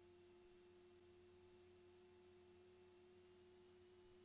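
Near silence: only a faint, steady hum with one constant tone.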